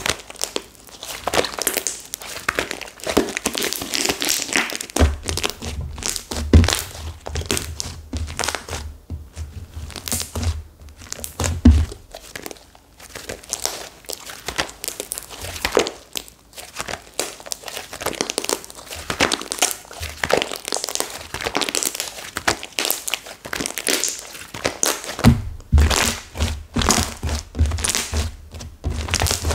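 Slime made stiff by hardened clay being squeezed and pulled apart by hand: a dense, irregular run of crackling, crinkling pops. Soft low thumps join in from about five seconds in to about twelve, and again near the end.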